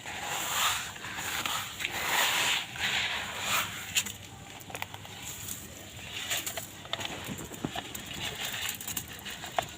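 Dry sand-cement block being crushed and crumbled, with dense gritty crunching for about the first four seconds, then sparser crackles and ticks of breaking grit.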